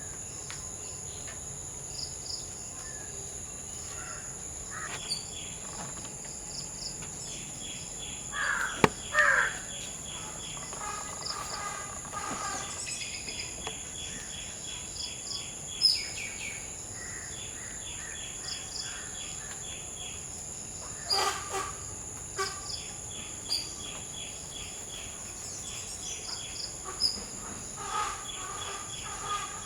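Crows cawing in short bouts, loudest about a third of the way in, again past two-thirds, and near the end, over a steady high insect drone and rapid pulsing insect chirps. A couple of sharp clicks stand out among the calls.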